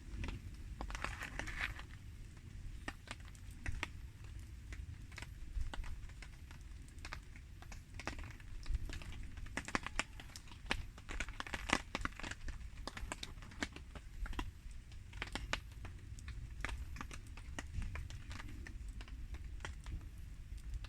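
Wood campfire crackling with irregular pops and snaps, mixed with rain ticking down, over a steady low rumble.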